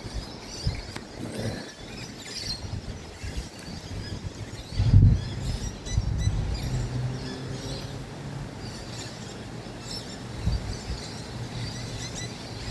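Outdoor ambience with scattered short, high bird chirps. A low thump comes about five seconds in, followed by a low steady hum for a couple of seconds.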